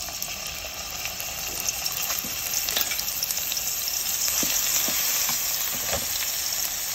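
Orange-yellow spice paste sizzling in hot oil in a nonstick saucepan as it is stirred with a metal spoon: a steady frying hiss with scattered small pops and clicks, growing a little louder a few seconds in.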